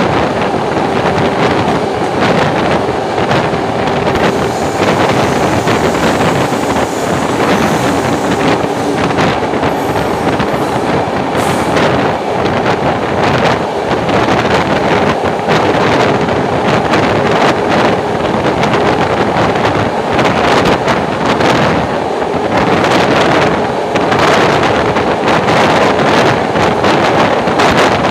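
Loud, steady rush of a passenger train running through a rail tunnel, heard from an open door, with frequent short clacks from the running gear and wind buffeting the microphone.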